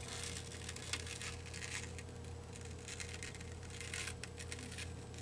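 Faint rustles and scrapes of paper pieces being shifted and repositioned by hand on a card, a few soft strokes here and there, over a steady low electrical hum.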